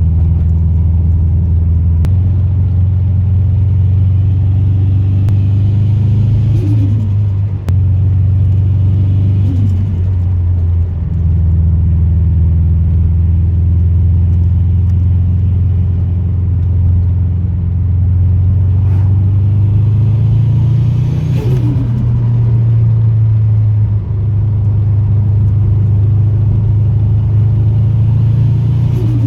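Subaru WRX STI's turbocharged flat-four with a Greddy turbo, running with a steady low rumble. A few times the engine note falls away with a short chatter of turbo flutter as the throttle closes.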